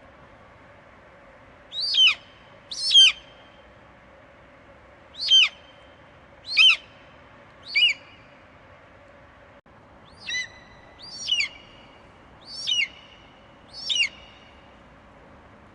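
An eagle calling: nine short, piercing screeches at uneven intervals, each sliding sharply down in pitch, over a faint steady hiss.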